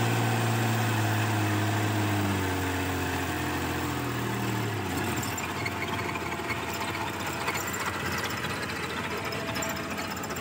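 Suzuki Mehran's small three-cylinder engine running as the car moves slowly. A steady hum sinks slightly in pitch over the first few seconds, then turns into a rougher, noisier running sound.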